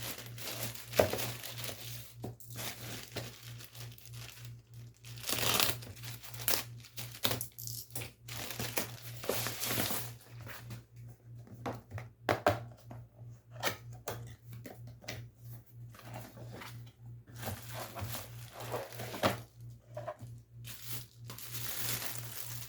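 Paper and packaging being handled at close range: irregular rustling, crinkling and tearing, with a steady low hum underneath.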